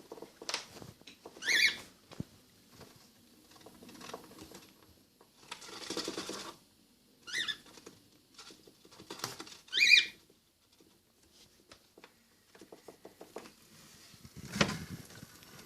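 A hatching cockatiel chick gives three short, high cheeps between soft scratching and rustling.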